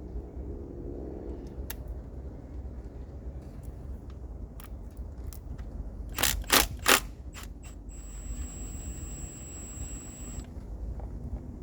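Hand tools and engine parts clicking and clacking during work under the hood, with three loud clacks close together about six seconds in, followed by a thin, steady high whine for a couple of seconds.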